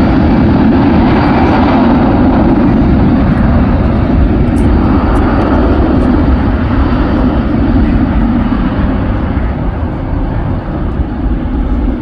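Loud, steady jet engine noise of an airliner passing close by at the airport, easing slightly near the end.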